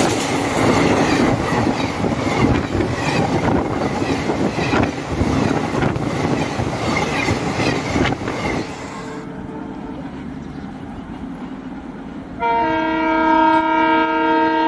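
Passenger coaches of an express train rolling past at speed, the wheels clattering over the rail joints, fading away after about nine seconds as the last coaches go by. Near the end, a steady chord of several held tones starts abruptly.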